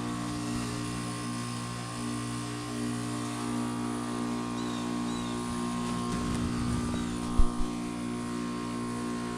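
Two Goodman GSZ14 heat pump outdoor units running in defrost mode, their Copeland scroll compressors giving a steady hum. A brief low thump comes about seven and a half seconds in.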